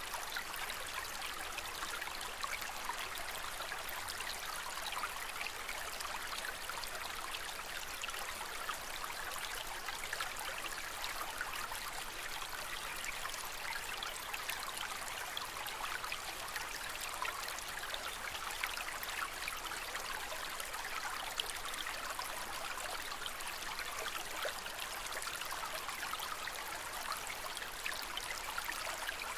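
Aquarium water trickling and splashing steadily, with a fine patter of droplets that doesn't change.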